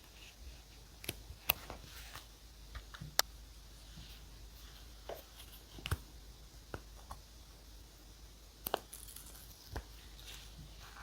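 Paper and stationery being handled on a desk for journal decorating: a dozen or so light, irregular clicks and taps, with a brief paper rustle about nine seconds in.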